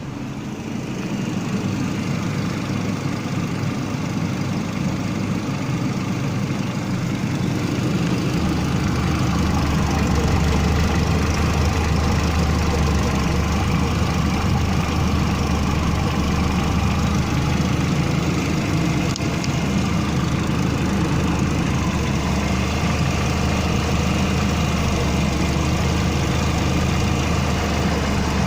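Renault 1.6-litre K4M 16-valve four-cylinder petrol engine running at idle, a steady even note whose low hum grows stronger about eight seconds in.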